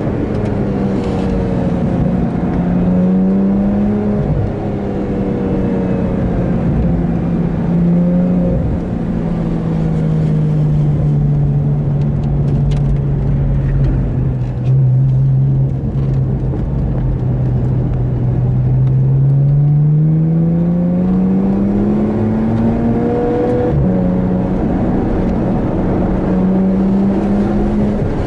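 Porsche 911 GT3's naturally aspirated flat-six heard from inside the cabin while being driven hard on a track. Its pitch climbs, steps down, sinks slowly through the middle as the car slows for a bend, then rises again under acceleration. Near the end the pitch drops sharply and starts climbing again, as at an upshift.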